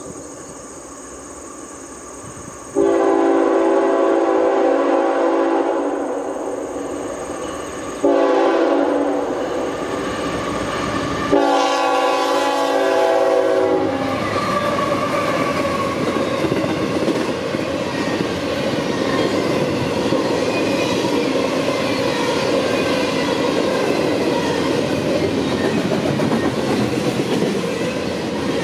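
CSX GE ET44AH locomotive's horn sounds three blasts approaching the crossing. Then the intermodal train passes close by: the locomotives and double-stack container well cars rumble and clack steadily over the rails.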